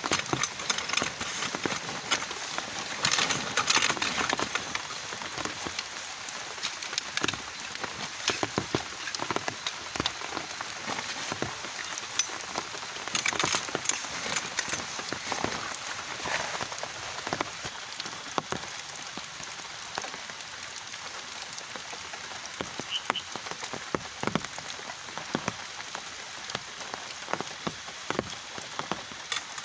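Heavy rain falling, with many separate drops striking a surface, growing heavier for a spell about three seconds in and again around thirteen seconds.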